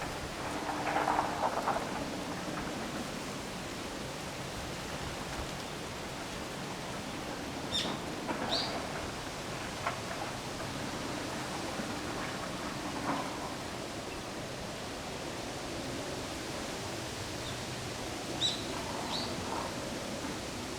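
Steady wind noise with rustling leaves. A small bird gives short, high chirps twice in quick succession about eight seconds in, and again near the end.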